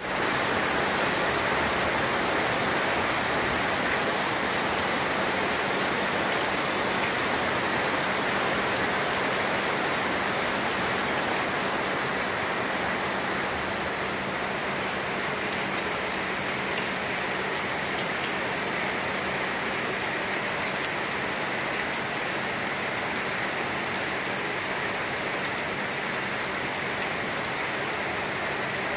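Steady rain falling on roofs and leaves, an even unbroken hiss.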